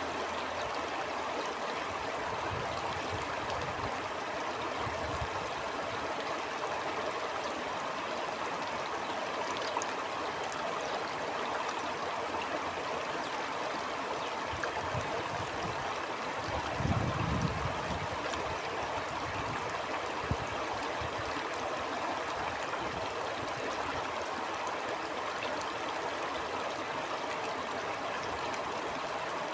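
Stream water flowing and burbling steadily, with a few brief low rumbles, the strongest about 17 seconds in.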